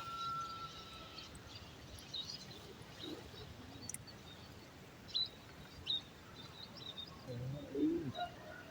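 Outdoor nature ambience with birds chirping intermittently: a high steady whistle note that fades about a second in, then short scattered chirps, and a brief low wavering sound near the end.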